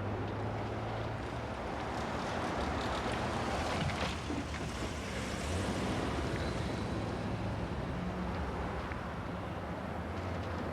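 Steady vehicle engine rumble with a rushing noise.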